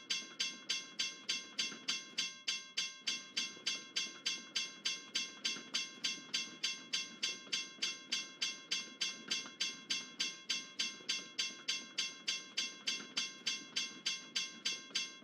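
Railroad crossing bell ringing in a fast, steady rhythm of about three strikes a second, over the low rumble of a passing train.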